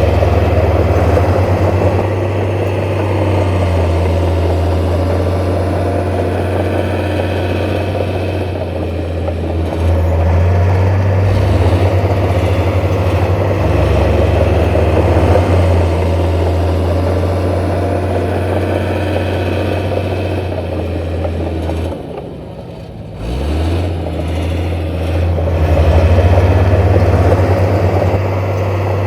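Heavy diesel construction machinery running with a steady low engine drone. About 22 seconds in the engine note drops briefly, then rises again in pitch as it revs back up.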